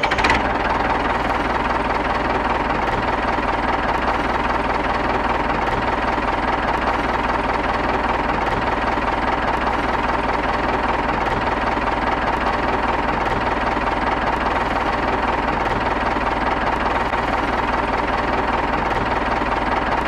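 An engine running steadily with a fast, even knocking and a thin steady whine.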